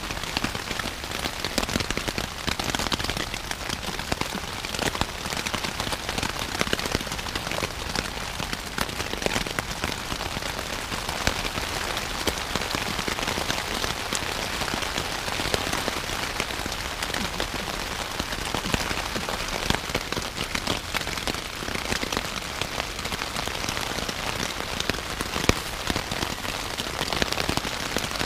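Rain falling steadily on the fabric of a Luxe Hex Peak pyramid tent, heard from inside: a constant hiss dotted with many separate drop ticks.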